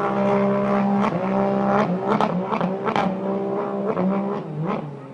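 A racing powerboat's 260 hp BRP Rotax engine running hard. Its pitch holds steady, then repeatedly dips and climbs back, and the sound fades near the end.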